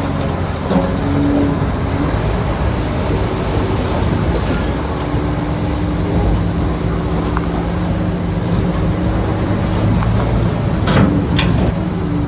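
Heavy diesel earthmoving machine running steadily under load, its engine note shifting a little, with a couple of sharp squeaks or clanks near the end.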